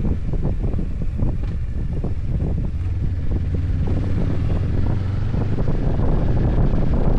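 Motorcycle engine running at a steady speed while riding, a low hum under heavy wind buffeting on the microphone.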